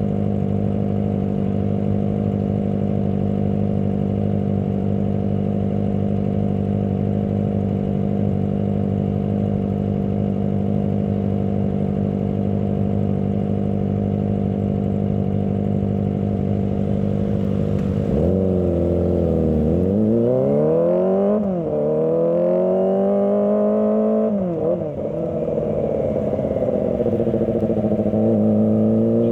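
Kawasaki ZX-25R's 250 cc inline-four engine idling steadily, then pulling away about 18 seconds in, its pitch climbing, dropping back sharply twice and climbing again near the end.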